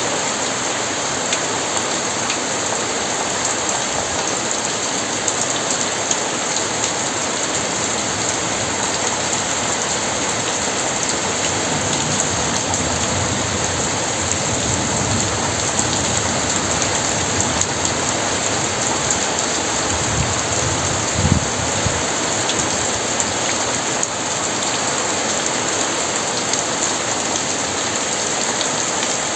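Very heavy rain pouring steadily, with a low rumble of thunder about twenty seconds in.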